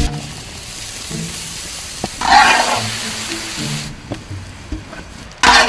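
Food sizzling in a large cooking pan, with a louder stirring scrape about two and a half seconds in, over background music.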